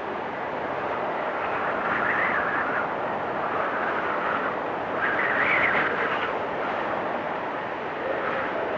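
Blizzard wind blowing steadily in gusts, swelling louder about two seconds in and again around five seconds in, with a faint whistling howl in the gusts.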